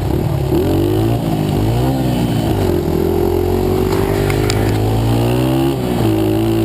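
A pit bike's small engine under throttle: its pitch climbs twice with brief drops, as if shifting up a gear, then holds steady for about three seconds before dipping and picking up again near the end.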